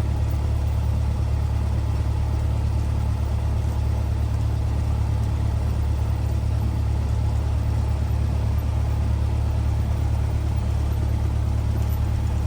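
Cessna 172R's four-cylinder Lycoming engine and propeller running steadily at low power, a constant low drone heard from inside the cockpit.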